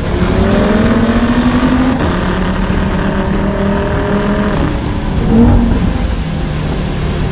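Audi TT RS's turbocharged five-cylinder engine accelerating hard through the gears. Its pitch climbs and then drops at upshifts about two seconds and nearly five seconds in, with a brief loud burst just after the second shift.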